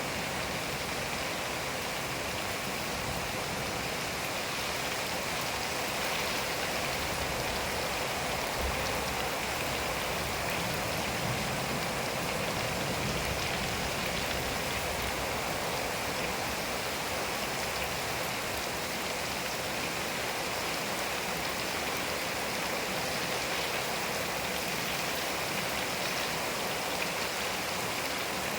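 Steady rain falling, a dense even hiss of many drops that holds at one level throughout, with no thunder.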